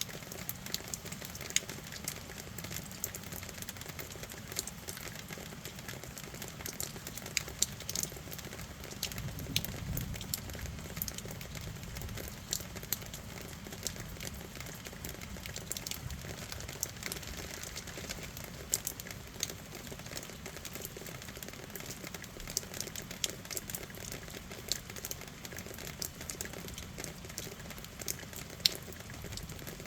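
Steady rain falling, with many scattered drops ticking sharply close to the microphone. A low rumble swells about ten seconds in.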